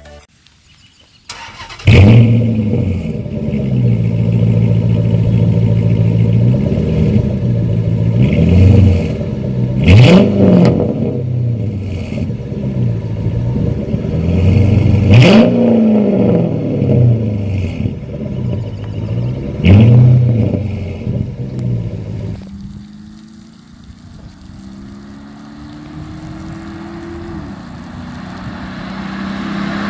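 2007 Dodge Charger R/T's 5.7-litre Hemi V8 through an SLP Loudmouth catback exhaust. It starts about two seconds in, running loudly with three sharp revs that rise and fall. Then it drops away and accelerates with a rising pitch, growing louder again near the end.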